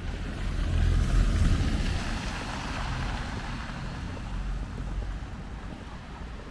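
A motor vehicle passing close by on the street: a low engine rumble and tyre noise that swell to a peak about a second in, then slowly fade.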